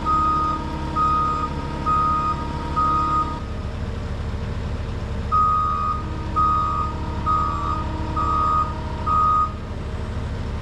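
Skid steer's backup alarm beeping about once a second while the machine reverses, over its steadily running diesel engine. The beeping stops for about two seconds near the middle, then resumes for five more beeps.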